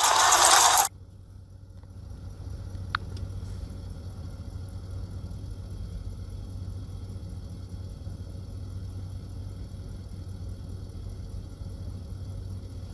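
A loud rushing noise cuts off abruptly about a second in, leaving a steady low engine hum of an idling vehicle. A short thin beep sounds about three seconds in.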